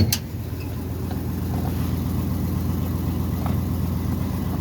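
1967 Ford F100 engine idling steadily just after a cold start, growing a little louder over the first second or so and then holding even. A single sharp click sounds right at the start.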